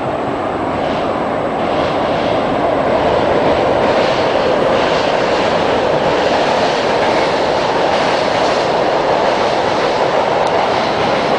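Electric commuter train running on the tracks close by: a steady rushing rail noise that builds over the first few seconds and then holds.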